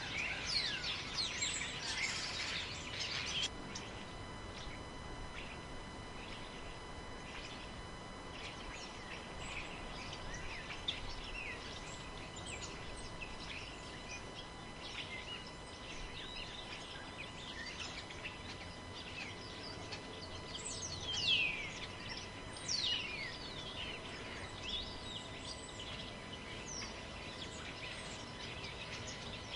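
Wild birds chirping and calling in a forest over a steady low hiss of wind. A dense burst of chirping cuts off abruptly about three and a half seconds in; after that the calls are scattered, with a few louder ones a little past the middle. A faint steady high tone runs underneath.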